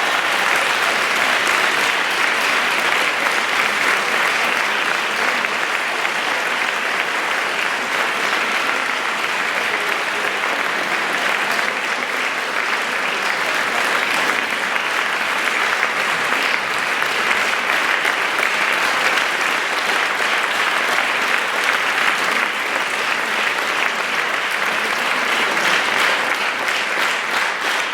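Concert-hall audience applauding steadily after a choir's performance, a dense even clapping.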